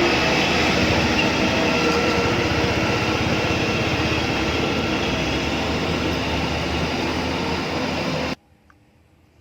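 RC construction model running with a steady, dense mechanical engine-like noise, which cuts off suddenly about eight seconds in.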